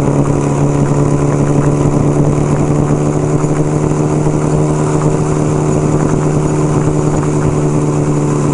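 1975 Kawasaki KZ400's parallel-twin engine running steadily at an even, unchanging pitch.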